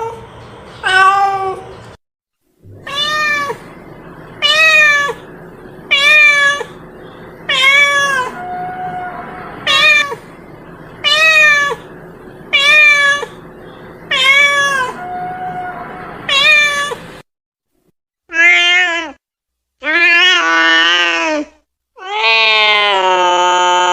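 Domestic cat meowing: a run of short, evenly spaced meows, about one every second and a half. After a brief gap come longer, drawn-out meows, the last one held for a couple of seconds.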